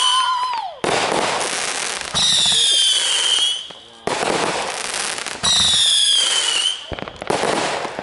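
Backyard aerial fireworks: whistling effects shriek and fall in pitch, about three times, alternating with sudden loud stretches of hissing, crackling noise.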